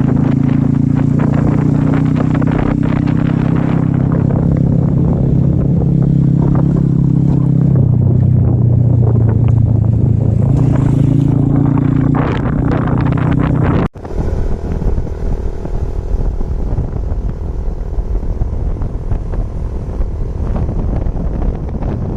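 Motorcycle engine running steadily while riding, its pitch dropping about eight seconds in and rising again a few seconds later. About fourteen seconds in the sound cuts abruptly to wind rushing over the microphone, with the engine fainter underneath.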